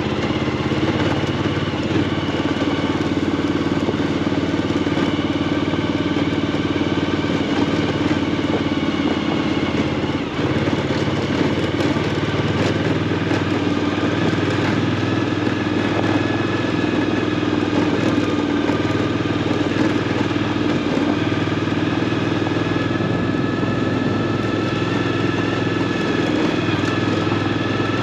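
Suzuki V-Strom motorcycle engine running steadily while the bike is ridden, its pitch holding nearly constant at an even cruising speed.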